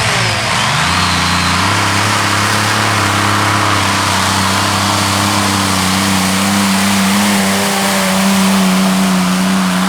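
Engines of the Green Monster modified pulling tractor running flat out during a pull. The revs drop in the first second, then hold steady at a loud, even pitch.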